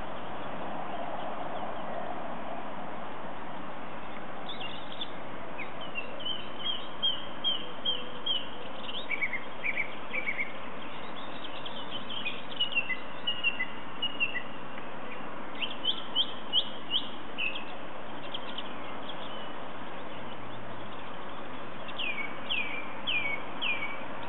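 A songbird singing in phrases of short repeated notes and quick downward-sliding whistles, with pauses between phrases, over a steady background hiss.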